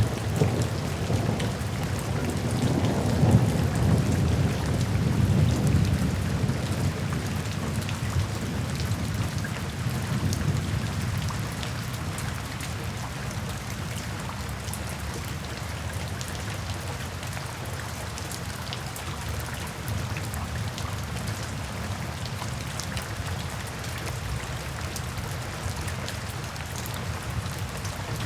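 Steady rain falling, with scattered drop ticks over an even hiss. A long roll of thunder rumbles low under it, swelling a few seconds in and fading away by about ten seconds in.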